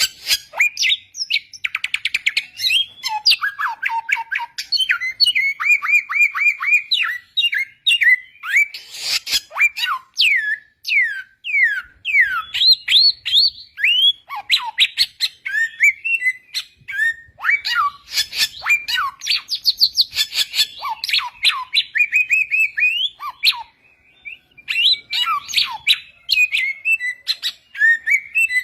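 Samyong birdsong: a fast, varied run of sharp chirps, buzzy trills and short downward-sliding whistles, broken by a brief pause about 24 seconds in.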